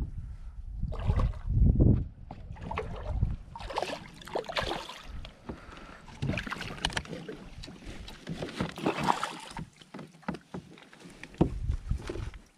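Sounds of a kayak on the water: irregular water splashing and hull noise, with wind buffeting the microphone in the first couple of seconds and again near the end.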